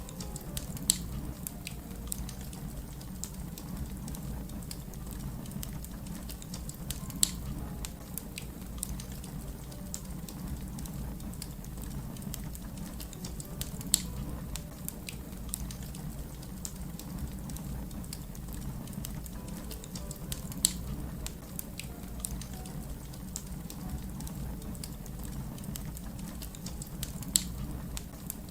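Fire crackling: a steady low rumble with many small ticks, and five louder, sharp pops at even spacing of about seven seconds.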